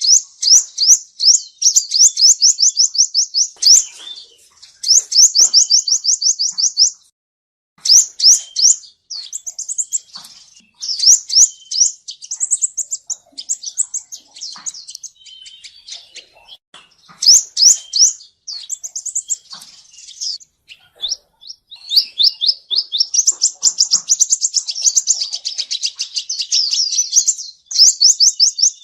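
Male sunbird singing: fast trills of thin, high notes in phrases of one to several seconds, broken by short pauses. It is a song used as a lure to trap wild sunbirds.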